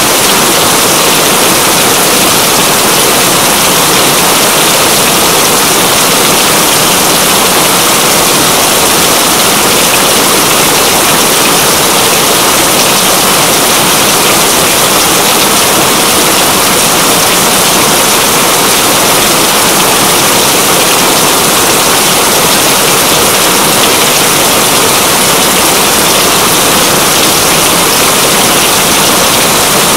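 Steady, dense rain hiss that stays even, with no single drops or crackles standing out.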